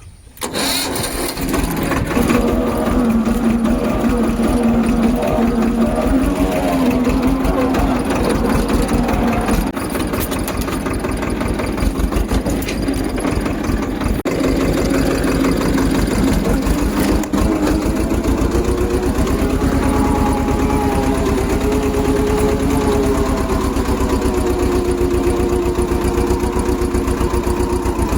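A tractor's diesel engine starts about half a second in, then runs steadily with a regular low throb, its note shifting upward somewhat past the middle.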